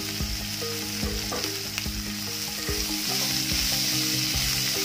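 Chopped onions, green chillies and peanuts sizzling in hot coconut oil in a nonstick pan, stirred with a wooden spatula that scrapes and knocks against the pan now and then.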